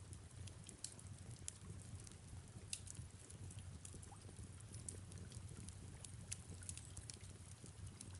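Fireplace crackling: irregular sharp pops and snaps scattered at random over a low, steady rumble, with soft rain underneath.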